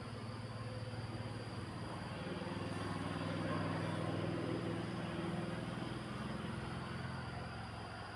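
A motor vehicle passing by: a low engine hum grows louder to a peak about four seconds in, then fades away, over a steady outdoor background.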